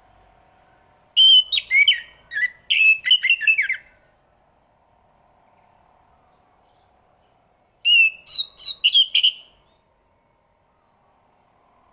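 Chestnut-capped thrush singing two phrases of quick, clear whistled notes with falling sweeps. The first phrase starts about a second in and lasts nearly three seconds; the shorter second phrase comes about eight seconds in. A faint steady hum runs underneath.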